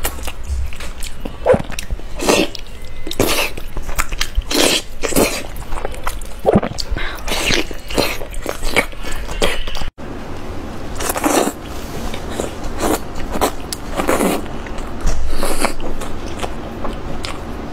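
Close-up eating sounds: a person biting and chewing food, a dense run of short irregular bites and mouth smacks, with a brief dropout about ten seconds in.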